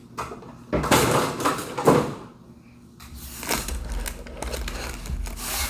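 Packaging and a toy excavator being handled: rustling, scraping and a few knocks, with a steadier low rumble of handling in the second half.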